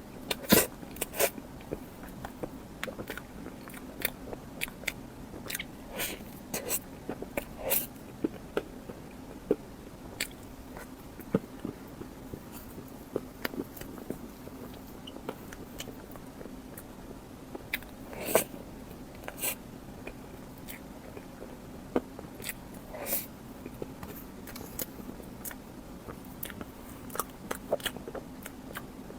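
Close-miked eating: irregular crisp bites and chewing, a string of short sharp crunches and mouth clicks at uneven intervals, with a few louder bites scattered through, over a faint steady hum.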